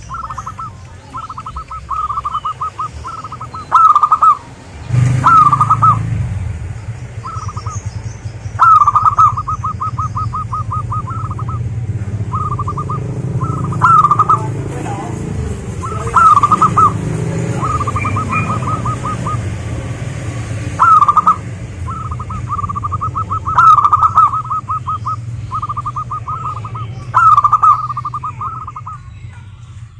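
Zebra doves (perkutut) singing: repeated phrases of rapid staccato cooing notes, each phrase lasting one to a few seconds, with several birds at times overlapping.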